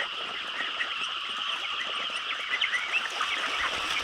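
A crowd of baby chicks peeping together: a dense, steady chorus of many short high chirps overlapping without a break.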